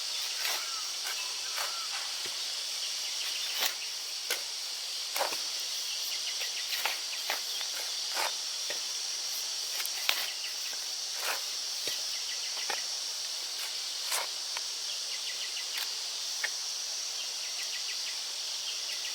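Steady high-pitched drone of insects calling, with irregular sharp clicks and knocks scattered over it about once a second.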